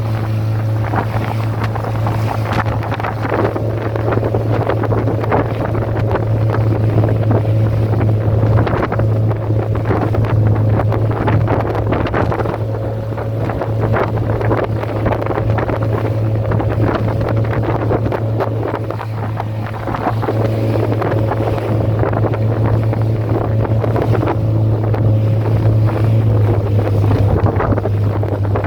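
Motorboat engine running at a steady drone, with strong wind buffeting the microphone in gusts over it.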